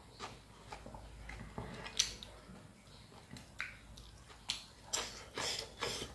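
Close-up eating sounds: chewing and wet mouth smacks as irregular sharp clicks, the loudest about two seconds in and a cluster of them near the end.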